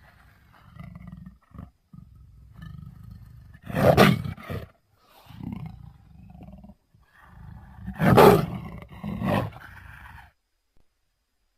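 Sabor leopard sound effects: low big-cat growling broken by snarling roars, the two loudest about four and eight seconds in, with shorter ones after each.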